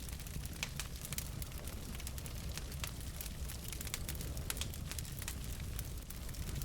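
Wood fire of burning logs in a fireplace crackling, with irregular sharp pops over a steady low rumble of the flames.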